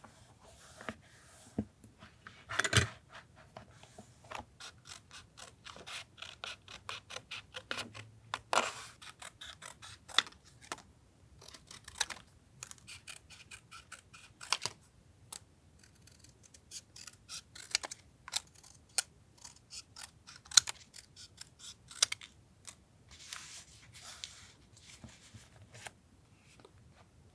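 Scissors cutting paper: runs of quick, crisp snips with pauses between, and light paper rustling.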